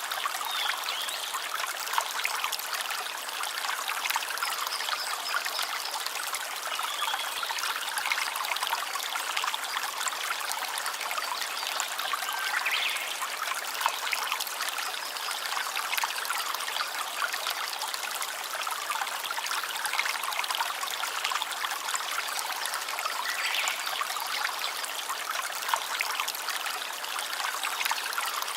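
Small stream trickling and splashing steadily over stones.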